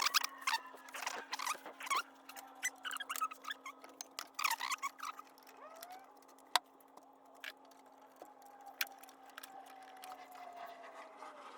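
Faint clicks and short squeaks of hand work on the engine's wiring, plastic electrical connectors being unplugged from the fuel injectors and ignition coils, with one sharper click a little past halfway, over a steady low hum.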